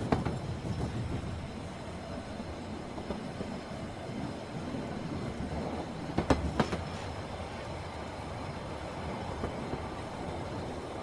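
Suburban electric train running along the track with a steady rumble, with sharp clacks of wheels over rail joints at the start and a quick pair about six seconds in.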